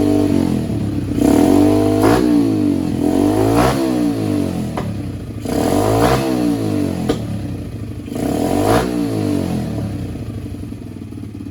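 Yamaha TTR-110's small single-cylinder four-stroke engine, freshly fitted with a Nibbi carburettor and new exhaust, revved up and back down about five times, then settling to a steady idle near the end. It picks up cleanly, which the owner hears as a lot better.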